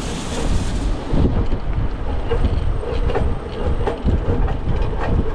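Strong gusting wind buffeting the microphone, a constant heavy rumble, with irregular metallic clicks and rattles and a faint steady hum from the idling truck.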